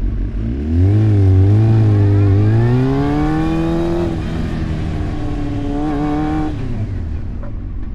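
Motorcycle engine pulling away and accelerating, its pitch climbing for about three seconds, then holding steady at speed. Near the end the throttle is shut for the quick stop and the engine note drops away, over a steady low rumble of wind.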